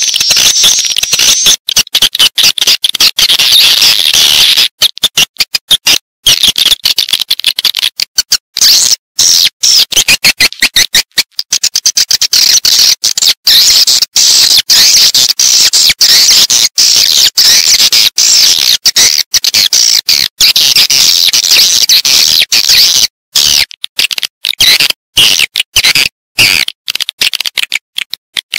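Edible-nest swiftlets twittering in a dense, continuous chorus of rapid high chirps, cut by many abrupt short gaps. It is a swiftlet lure call of the kind played to draw the birds into a nesting house.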